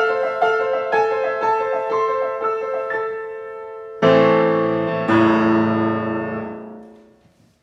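Solo piano finishing a piece: a quick run of notes fades out, then two loud full final chords, about four and five seconds in, ring and die away.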